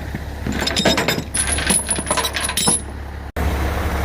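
Clicking and clinking of small metal parts being handled over the steady idle of a Peterbilt truck's diesel engine. The sound cuts out abruptly about three seconds in, then the idle carries on.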